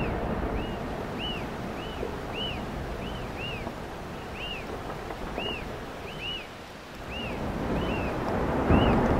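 A small bird repeating short, high arched chirps, about two a second, some in quick pairs, over a steady rushing background noise that swells near the end.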